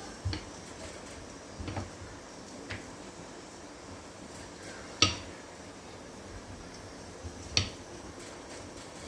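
Kitchen cookware and utensils clinking and knocking now and then: five light, separate knocks, the sharpest about five seconds in and another about two and a half seconds later.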